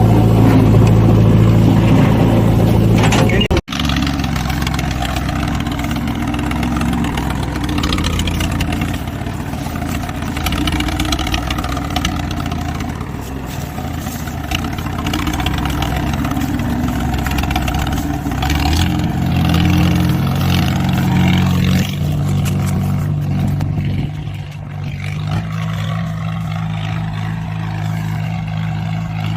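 Diesel engine running, holding steady for stretches and rising and falling in pitch as it is revved. The sound breaks off abruptly about three and a half seconds in, then the engine is heard again.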